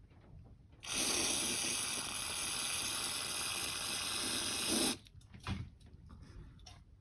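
Aerosol can of contact cleaner sprayed in one continuous hiss for about four seconds, starting about a second in and cutting off sharply. The spray chills the W1209 temperature relay's sensor so that the relay switches on. A few faint knocks follow.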